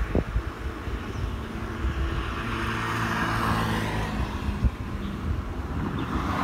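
A motor vehicle's engine running, with a steady hum plainest in the middle seconds over a low rumble.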